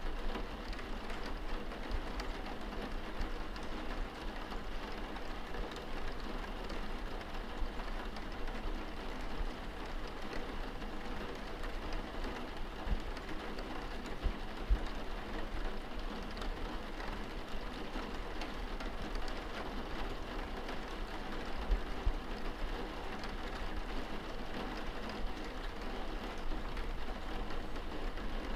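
Rain falling on window glass, heard from inside a room: a steady hiss with scattered sharp drop taps. A few brief low thumps stand out in the middle stretch.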